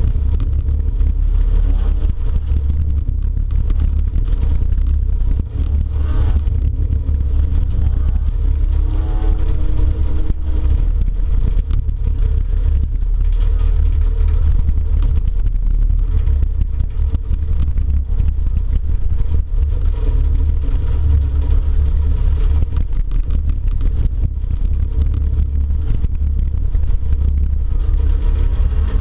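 Speedway derby car's engine running hard, its pitch rising and falling as it revs, heard from inside the car over a heavy low rumble, with occasional knocks.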